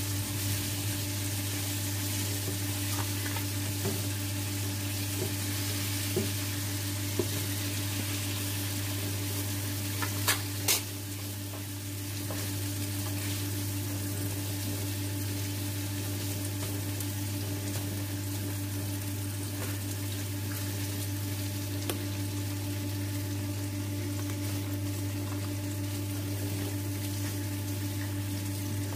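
Mince and prawns frying in hot oil in a nonstick frying pan: a steady sizzle as they are stirred with a spatula. A few sharp clicks come from the spatula striking the pan, two of them close together about ten seconds in, over a steady low hum.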